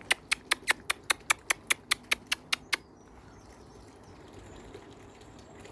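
A bird's rapid ticking call at dusk: about five sharp, even ticks a second for nearly three seconds, then it stops.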